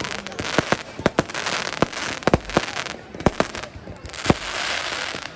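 Fireworks display: an irregular string of sharp bangs, about a dozen in five seconds, over a steady crackling hiss of bursting shells, with a few deeper booms among them.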